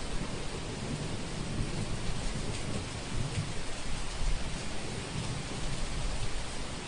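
Steady rain falling, with a low, uneven rumble of thunder rolling underneath it.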